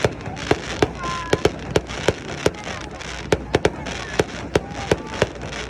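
Fireworks display: a rapid, uneven run of sharp bursts, about two to three a second, over a continuous noisy wash.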